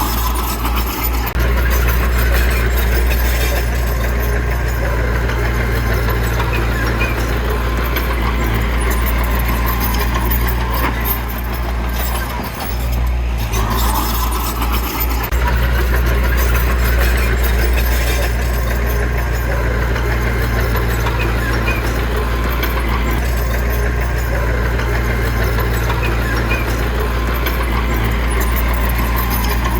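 Diesel engine of heavy earthmoving equipment running steadily under load, with a low, constant hum and a short dip about twelve seconds in.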